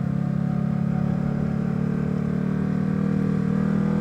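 Motorcycle engine running under way at steady revs, its pitch climbing slowly.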